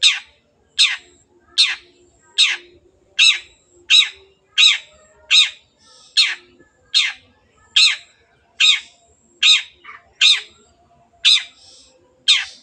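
Long-tailed shrike (cendet) giving a harsh, scolding call over and over, about one note every 0.8 seconds, each note sweeping downward in pitch, with a faint thin high whistle between some notes.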